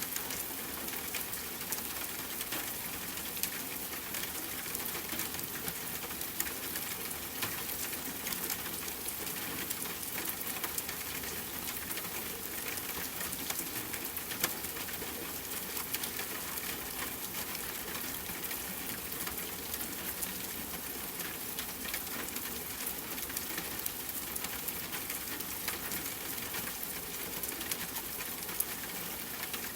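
Steady rain pattering on a tent, mixed with frequent small, sharp pops and crackles of a wood campfire.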